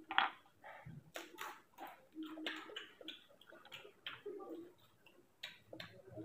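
Close-miked mouth sounds of a person eating by hand: chewing and lip smacking in a run of short, irregular wet clicks and crackles, with food that includes papad and rice.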